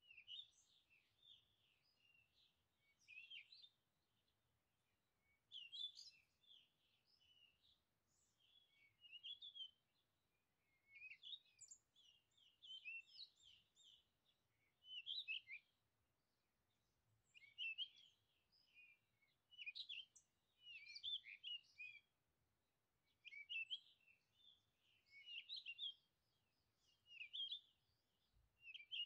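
Faint birdsong: quick, high-pitched chirping phrases in short bursts every two to three seconds, with brief pauses between.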